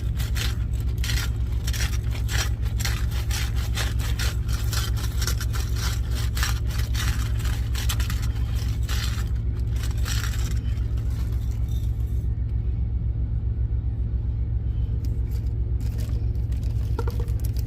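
Himalayan pink salt being dispensed: a long run of quick scraping clicks for about ten seconds, thinning out after that. Underneath, the steady low drone of an idling truck engine.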